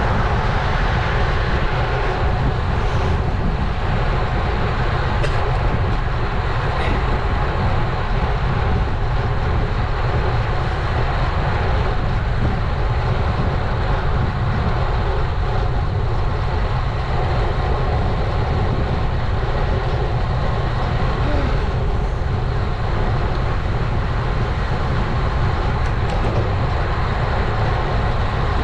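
Steady wind rumble on an action camera's microphone, mixed with the tyre and road noise of a road bike riding along at speed.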